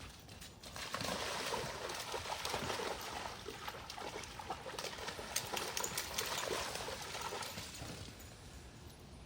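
Water splashing and trickling, with many small irregular clicks; it starts about a second in and fades out near the end.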